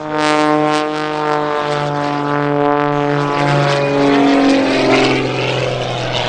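The piston engine and propeller of a Wolf Pitts Pro aerobatic biplane running hard in flight, a loud droning buzz whose pitch slides down in the second half as it passes and changes attitude.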